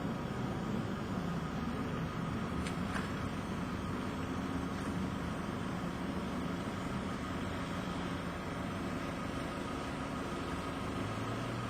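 A motor vehicle's engine running steadily, with a low hum and even background noise; two faint clicks about three seconds in.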